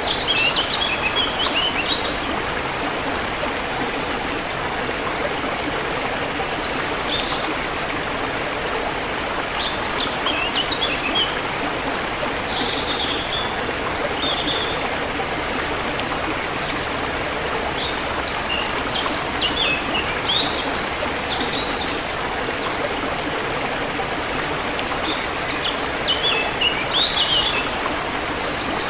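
Forest river flowing steadily, with songbirds chirping in short phrases every few seconds over it.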